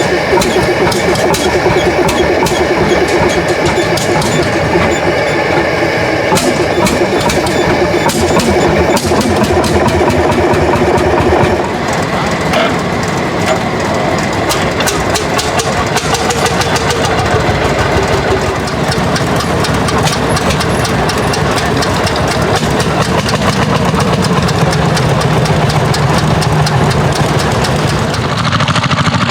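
Old tractor engines running, a steady string of firing knocks over the engine's note, changing to a different tractor about twelve seconds in and again near the end.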